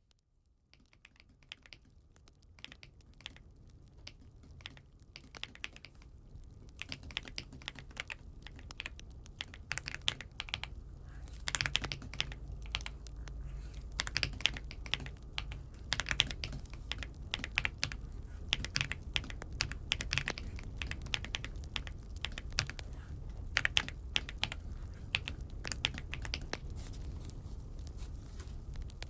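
Typing on an AULA F75 mechanical keyboard: a continuous, irregular run of key clicks that fades in over the first several seconds, then carries on steadily.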